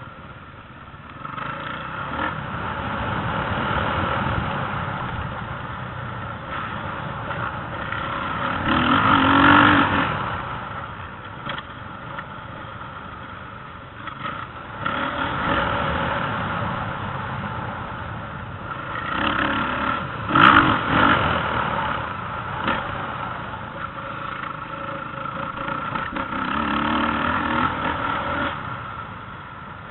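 Motocross dirt bike engines revving and fading, growing loud as bikes come close about ten seconds in and again about twenty seconds in.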